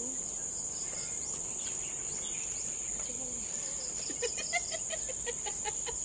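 Steady high-pitched drone of tropical forest insects, with a bird giving a quick run of short repeated notes about four seconds in.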